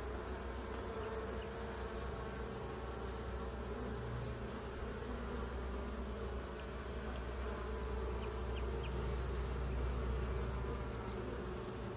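Many honeybees buzzing around an opened hive, a steady drone of wingbeats.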